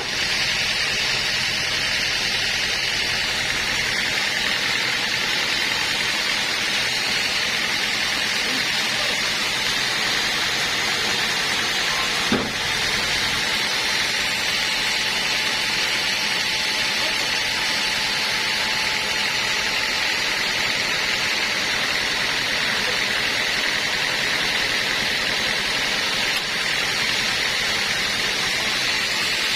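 Sawmill saw running steadily through a teak log, an even noise, with a single knock about twelve seconds in.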